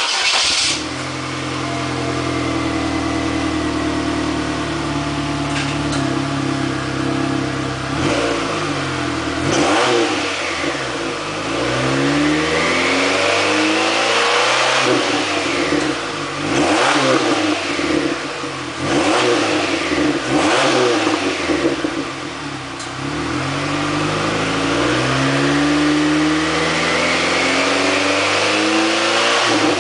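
2000 Pontiac Grand Am SE's 2.4-litre twin-cam four-cylinder, exhausting through a Cherry Bomb muffler, starting up and idling steadily. It is then revved several times: quick blips and two longer revs whose pitch rises and falls.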